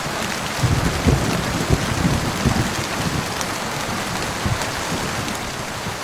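Steady heavy rain as an even hiss, with irregular low patters of large drops striking a surface.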